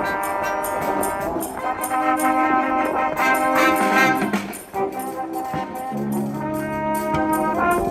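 School wind band playing a send-off tune: trumpets and trombones holding full chords over a steady percussion beat.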